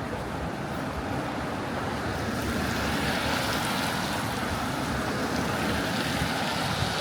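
Steady hiss of rain and tyres on a wet city street, swelling a little in the middle as traffic passes.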